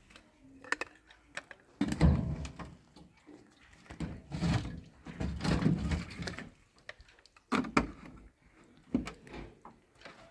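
Irregular knocks and thuds, with scraping and handling noises in between, like a door or objects being moved in a small room. The loudest thud comes about 2 seconds in.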